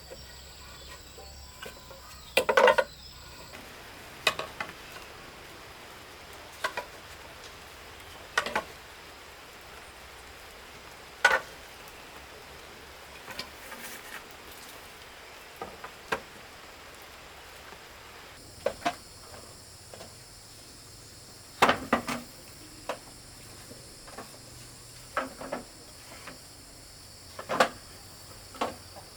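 Scattered light knocks and taps, one every second or two and some in quick pairs, over a steady background of insects. A high, even cricket drone comes in partway through.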